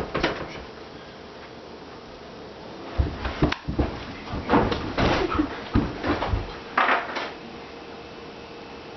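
Irregular clicks, knocks and clunks of something being handled and opened or shut: a brief few at the start, then a longer run of them from about three seconds in to just past seven.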